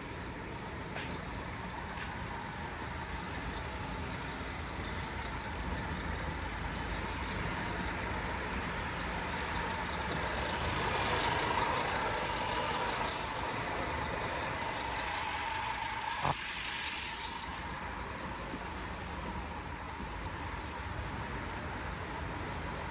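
Scania P230 truck's diesel engine running steadily, with a hiss that builds about ten seconds in and dies away around seventeen seconds, and a single sharp click near its end.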